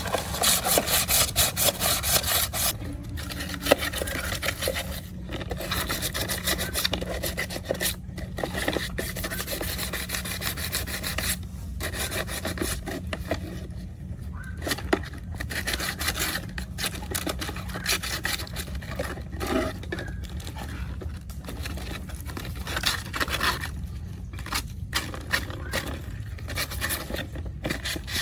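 Repeated hand rubbing and scraping strokes against a hard surface, as in stripping old paint or rust by hand. The strokes are quick and regular for the first few seconds, then more irregular.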